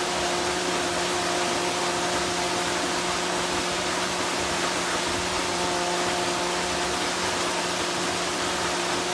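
Waterfall pouring: a steady, even rush of falling water, with a faint steady hum underneath.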